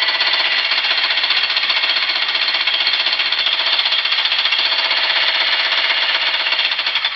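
A jackhammer running steadily, with very rapid, even blows.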